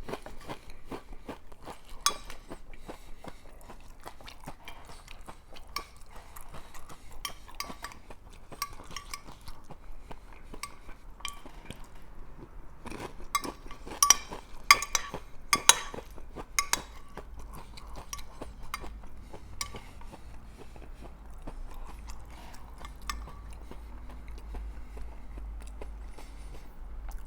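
Close-up eating sounds: crunching and chewing of Fritos corn chips topped with picadillo, with a utensil clinking against the dish. Many short crunches and clicks, loudest in a cluster about halfway through.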